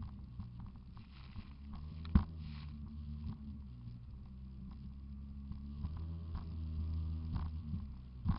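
Jet ski engine running steadily, its pitch wavering now and then. A sharp knock about two seconds in is the loudest sound, with a smaller one near the end.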